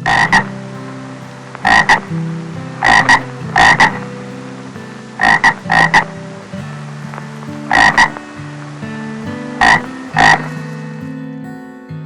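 Short, loud animal calls, mostly in quick pairs, repeating every second or two over soft background music.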